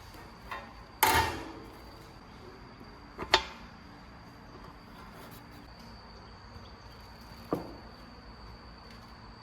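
Three sharp knocks with a short ring-out, about a second in, about three seconds in and about seven and a half seconds in, the first the loudest, as of hard parts being set down or fitted by hand, over a faint steady hiss.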